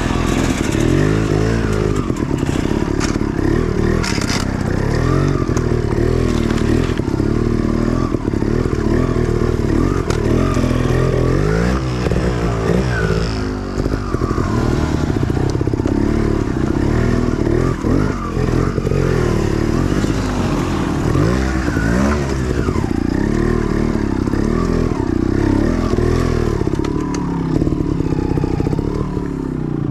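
Dirt bike engine working hard off-road, the revs rising and falling constantly as the throttle is opened and closed, with clattering from the bike over rough ground.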